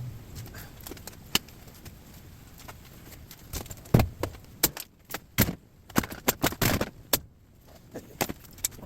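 Metal clinks and knocks at irregular intervals as a Kenmore Elite washing machine is taken apart for scrap, with hand tools and loose sheet-metal parts striking each other. The heaviest knock, with a dull thump, comes about four seconds in, followed by a quick cluster of clinks.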